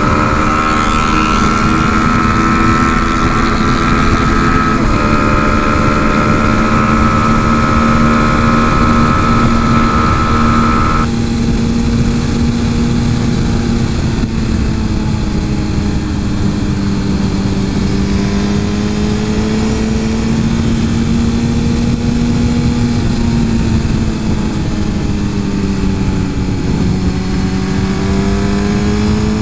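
Suzuki GSX-R 1000 inline-four engine running at steady revs while being ridden, its pitch drifting gently up and down and rising near the end. A higher whine lies over it for roughly the first eleven seconds and cuts off suddenly.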